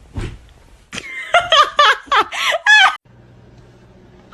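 A person giggling: a quick run of short, high-pitched laughs lasting about two seconds, starting about a second in.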